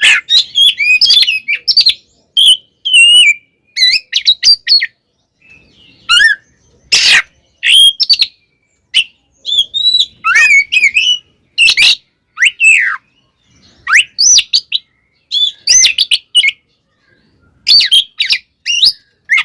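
Oriental magpie-robin (kacer) singing loudly in short, rapid bursts of sweeping whistles and sharp chattering notes, with brief pauses between phrases. It is the agitated fighting song used as a lure to provoke other magpie-robins.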